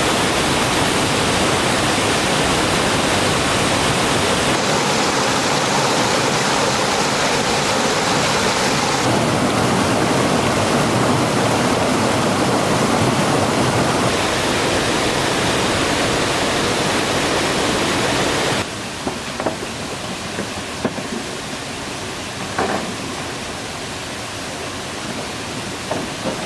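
Rushing water, a steady loud hiss that changes abruptly several times as the shots change. It drops to a softer water sound with a few light knocks in the last third.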